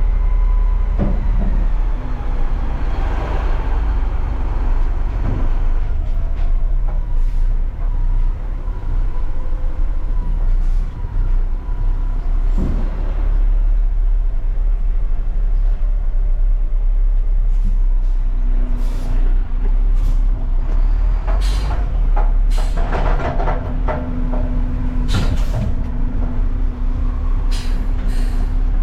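Garbage truck's diesel engine running steadily. In the last third, a string of sharp clanks and knocks comes in, together with a steady hum.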